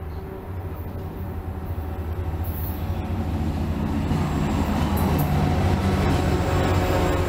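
Commuter train approaching: a steady low rumble that grows steadily louder.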